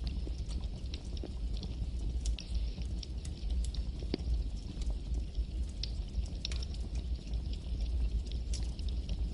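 Campfire burning, the wood crackling with irregular sharp pops several times a second over a steady low rumble and hiss.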